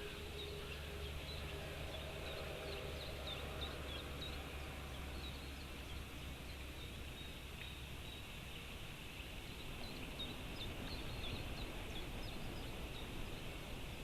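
Small birds calling: many short, thin, high chirps scattered in two loose runs, over a steady low rumble.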